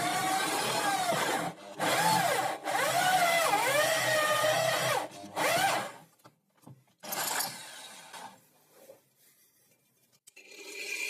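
An electric power tool is working wood, its motor pitch dipping and rising under load, with two brief breaks in the first three seconds. It stops about six seconds in and runs briefly again near seven seconds. Another steady motor starts up near the end.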